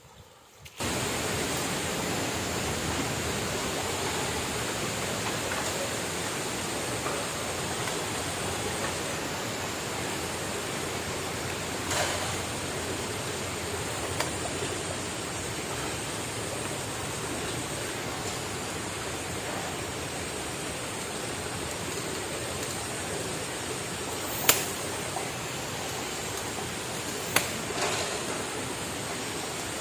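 Steady rushing of river water, starting abruptly about a second in. A few sharp clicks are heard over it.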